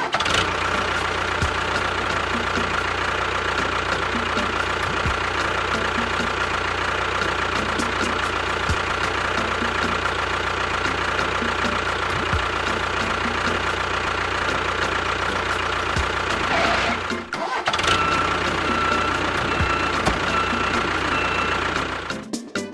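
An engine or motor running steadily, with a brief break about seventeen seconds in.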